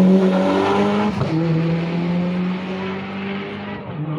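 Rally car engine accelerating hard, its pitch climbing, then dropping sharply at a gear change about a second in and pulling on at a steadier note as it slowly fades.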